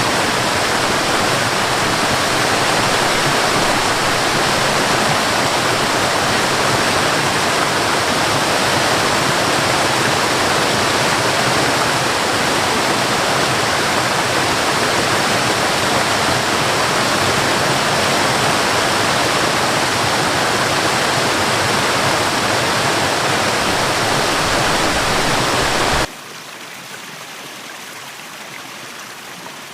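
Waterfall: water rushing steadily and loudly, then about four seconds before the end it cuts off abruptly to a much quieter, gentler flow of water.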